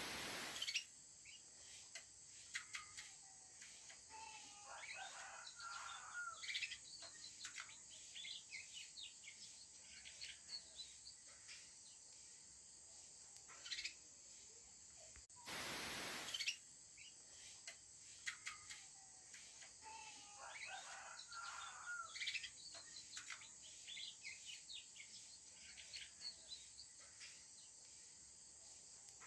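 Young canary twittering in scattered short chirps and warbles, practising its song, over a steady high hiss. A loud rush of noise lasting about a second comes about halfway through.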